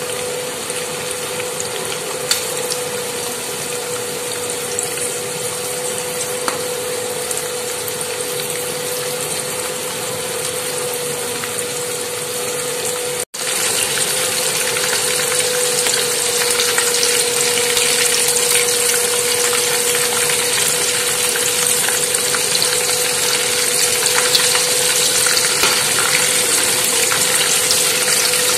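Breadcrumb-coated prawns deep-frying in a pan of hot oil: a steady sizzle with a faint steady hum underneath. It cuts out for an instant about halfway through and comes back louder.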